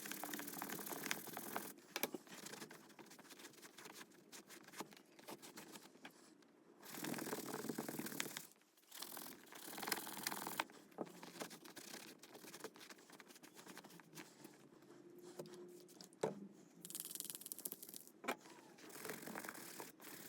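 A leather baseball glove being scrubbed by hand with a lathered leather cleaner: uneven, scratchy scrubbing strokes with small clicks and knocks of the handling.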